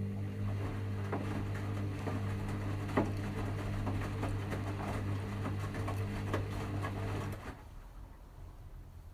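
Washing machine drain pump humming steadily, with water and air gurgling and clicking through it as the drum empties. It cuts off suddenly about seven and a half seconds in.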